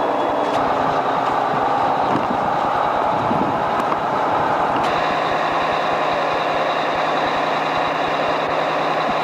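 The Detroit Diesel engine of a 1986 Sutphen fire engine pumper running steadily. About five seconds in, a steady low hum and a thin high tone join the engine sound.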